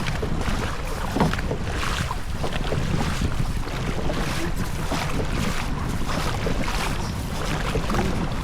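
Wind buffeting the microphone on a moving boat, a steady low rumble with the rush of water around it.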